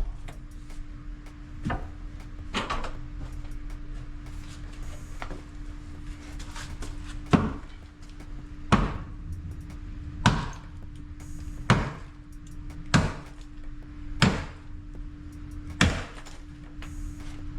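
Repeated hammer blows of demolition work on old plumbing: a couple of lighter knocks early, then heavy strikes about every second and a half. A steady low hum runs underneath.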